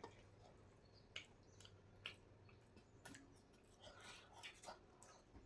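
Near silence with faint eating sounds: soft chewing and a scattering of small mouth clicks and smacks, a few more of them near the end.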